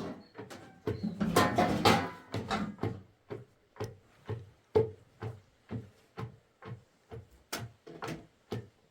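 Repeated sharp knocks of a hand tool striking, evenly paced at about two to three a second, starting after a short stretch of voice in the first few seconds.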